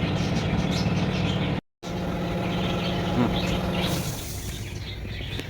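A steady mechanical hum, broken by a brief gap about one and a half seconds in and fading about four seconds in.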